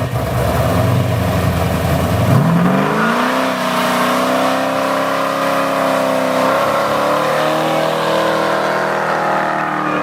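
A muscle car engine idling with a low, uneven note, then revving up about two and a half seconds in and holding at a higher, steady speed.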